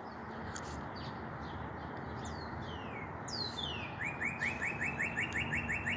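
Songbirds singing: a few clear whistled notes that slide downward, then from about four seconds in a rapid trill of about seven short notes a second.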